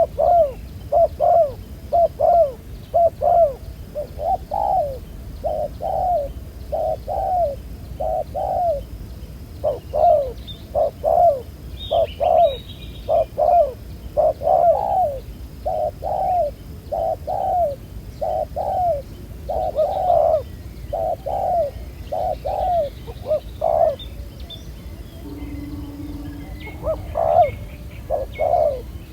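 Spotted doves cooing: a steady run of short, low coos about one to two a second, with a short pause about 25 seconds in.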